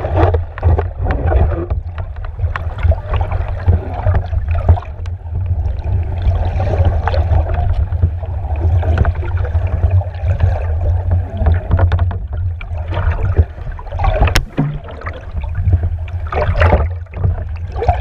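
Strong wind buffeting the microphone in a steady low rumble, with water splashing and sloshing irregularly around a small boat.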